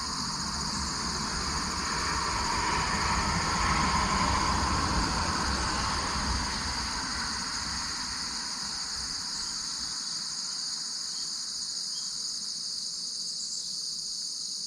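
Steady high chorus of insects, with the rumble of a passing vehicle swelling to a peak about four seconds in and fading away by about ten seconds.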